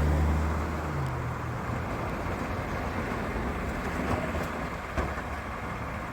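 Recycling truck's engine running raised to drive the hydraulics as the load is packed, easing back to a lower steady idle after about a second and a half. Two short knocks come near the end.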